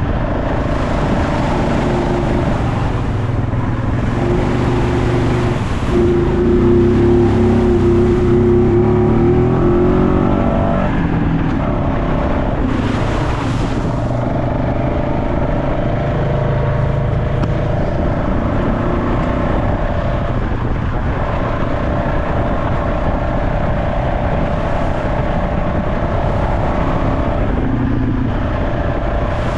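Off-road trail vehicle's engine running steadily, revving harder and rising in pitch for several seconds early on before settling back. A short rushing noise comes about halfway through.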